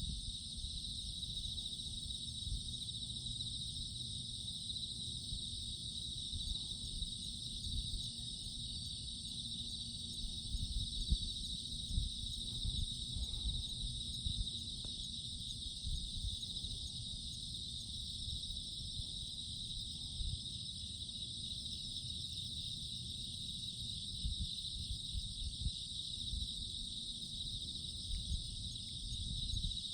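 Steady trilling chorus of insects, over a low, uneven rumble that swells a little about a third of the way in.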